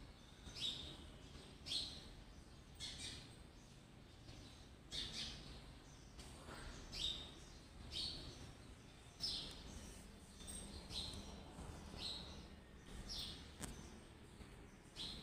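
A bird calling over and over, short high chirps that drop in pitch, about one a second, over a faint steady background hiss.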